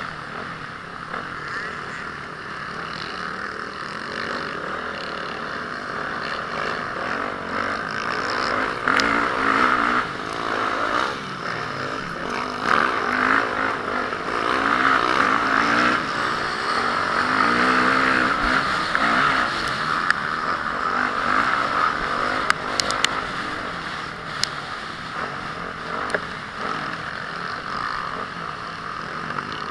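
Honda CRF450R motocross bike's single-cylinder four-stroke engine revving up and down in repeated rising and falling sweeps over a steady rushing noise. A few sharp clicks come a little over two-thirds of the way through.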